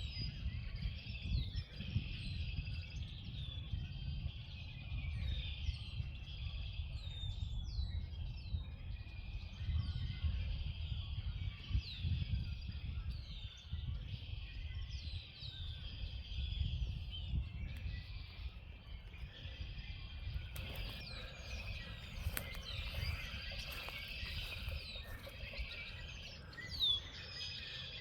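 A chorus of many small birds chirping, with short down-slurred calls overlapping throughout and growing busier near the end, over a steady low rumble.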